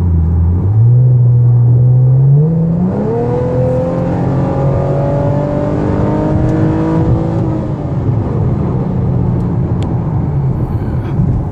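2013 Chevrolet Camaro's V6 with an aftermarket exhaust accelerating under throttle. The engine note climbs steadily in pitch for several seconds, then the throttle eases off about eight seconds in and it settles into steady cruising.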